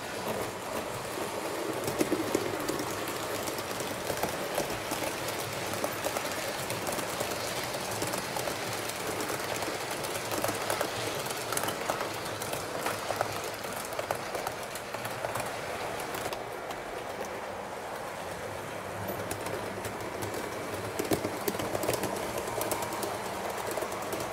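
Train running along the track: a steady rolling noise with scattered clicks from the wheels.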